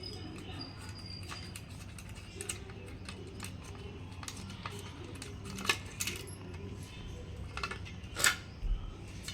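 A few light metallic clicks and taps of small parts being handled by hand, as a refrigerator thermostat's retaining washer is loosened and the thermostat is worked free. The clicks are scattered, with a couple of sharper ones past the middle and near the end.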